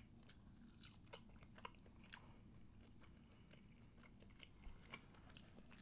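Faint chewing of baked chicken and cornbread: scattered soft mouth clicks at an irregular pace.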